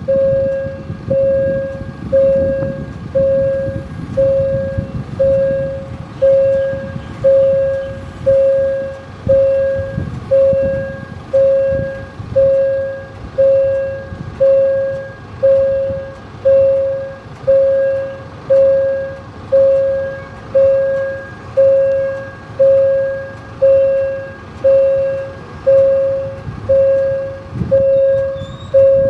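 Railway crossing warning bell ringing steadily, one decaying strike about every second, over the low rumble of an Alstom diesel locomotive.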